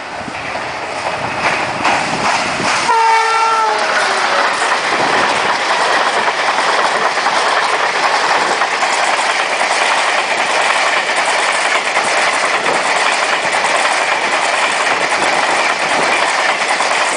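A WCAM-3 electric locomotive sounds its horn once, for about a second and a half, about three seconds in, as the express approaches. Then the train's coaches run past at speed with a loud, steady clatter of wheels on rails.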